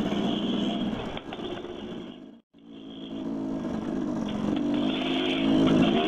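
Dirt bike engine running while riding. The sound fades and cuts out completely for a moment about two and a half seconds in, then comes back and grows louder.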